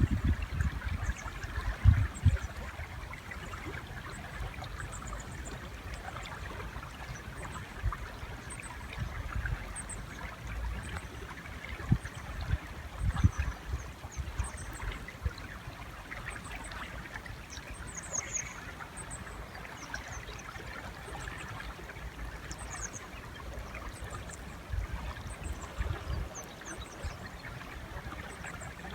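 River water flowing steadily, with many short, faint high-pitched chirps scattered over it and a few low bumps, the loudest about two seconds in and again around twelve to thirteen seconds in.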